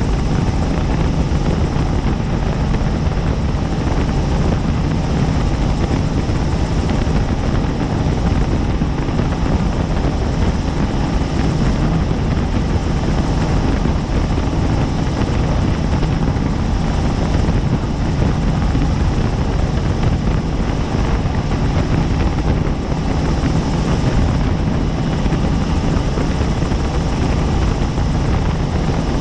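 Helicopter in flight: steady, loud rotor and engine noise with a deep low-end drone that holds level without change.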